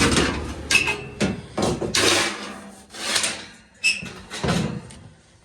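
A series of sharp knocks and clanks from hard objects being handled, about eight in all, two of them with a brief metallic ring. Under the first second or so a low steady hum runs and then stops.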